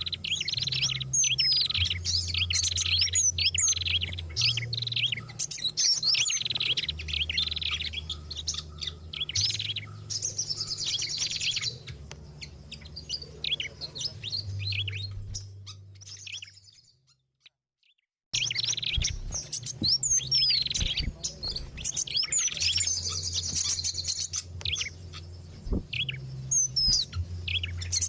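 Bird-lure recording of several small songbirds chirping and trilling in an excited, agitated chorus, as used to call wild birds in. It fades out about two-thirds of the way through, is silent for about a second and a half, then restarts abruptly as the track loops.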